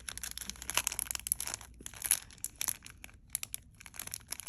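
Plastic packaging crinkling and rustling as it is handled, in many short, irregular crackles.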